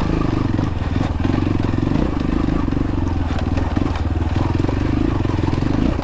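X-Pro Templar X 250 dirt bike engine running steadily at low revs, picking its way over rocky ground, with a few faint knocks.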